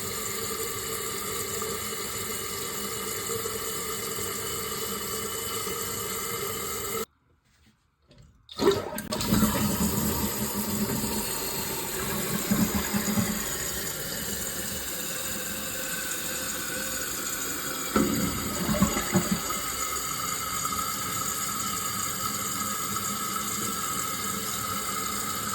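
Toilet water running: a steady hiss of water filling through the fill valve, cut off about seven seconds in. A second and a half later a rush of water starts, gurgling for a few seconds, then settles into a steady hiss of the tank refilling.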